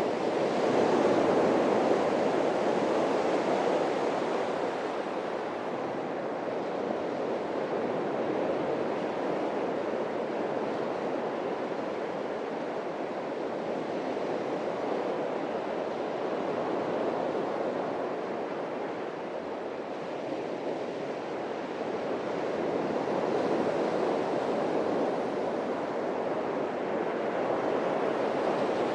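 Atlantic surf breaking on a beach: a continuous wash of waves that swells about a second in and again near the end, easing between.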